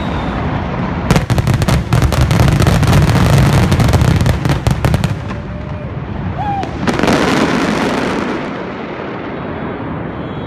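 Fireworks finale: a rapid barrage of many sharp bangs for about four seconds over a deep rumble, then a shorter rushing swell of sound that fades away.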